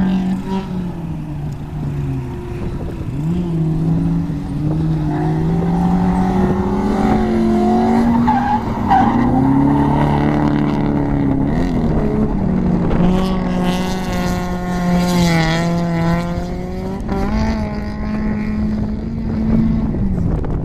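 Drift truck's V8 engine (a Toyota 1UZ-FE swap) revving up and down under load, with tyres squealing and skidding as it slides. The engine pitch climbs and drops repeatedly, and the tyre noise is loudest a little past the middle.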